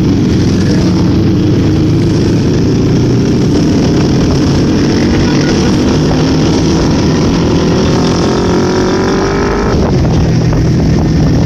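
Engine being warmed up, running loud and rough, then revved with a rising pitch that drops back abruptly to the steady running sound near the end.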